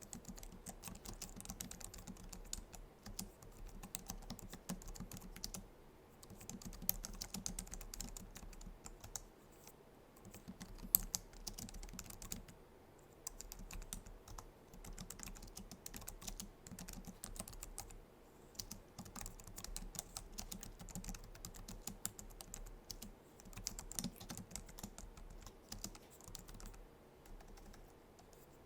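Continuous typing on a Logitech MX Keys keyboard: dense runs of soft, low-profile scissor-switch key clicks, broken by brief pauses between bursts.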